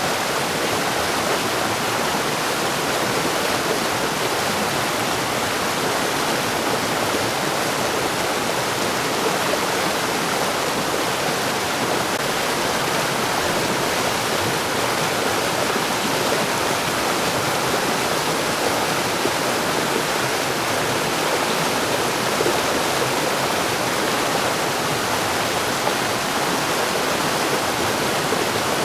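Mountain stream flowing over rocks: a steady, even rushing of water that does not change.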